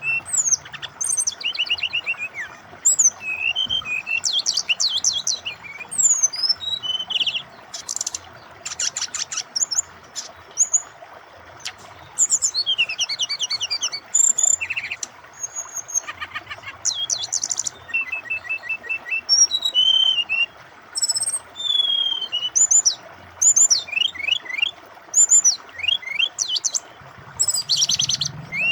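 Brown-chested jungle flycatcher singing a long, varied song: phrase after phrase of high chirps, sliding whistles and fast trills and rattles, with short pauses between them. A steady rush of flowing water runs underneath.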